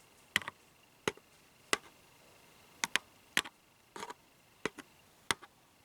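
Sharp, separate taps with a homemade sparkly wand, about ten of them at an uneven pace, some in quick pairs.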